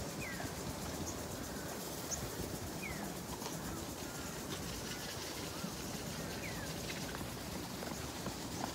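Outdoor park ambience: a steady wash of background noise, with a bird giving a short descending chirp three times, roughly every three seconds.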